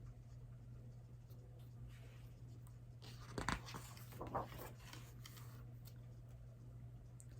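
A picture book's paper page being handled and turned: a short burst of rustling and a few clicks about halfway through, over a steady low hum.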